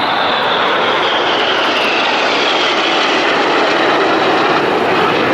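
Red Arrows' BAE Hawk T1 jets with Rolls-Royce Adour engines flying a low pass: a loud, steady jet roar with a high whine that falls in pitch as they go by.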